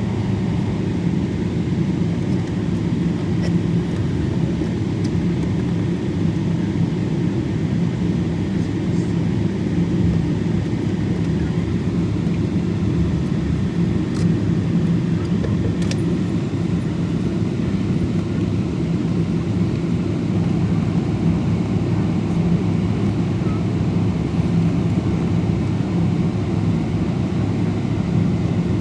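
Steady cabin drone inside a Boeing 777 airliner: engine and airflow noise, deep and unchanging, with a low hum running through it.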